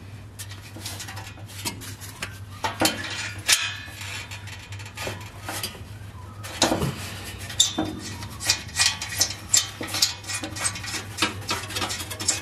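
Irregular metallic clicks and clinks of hand tools on metal, as 10mm bolts holding a Prius V exhaust heat shield are undone, growing busier in the second half over a steady low hum.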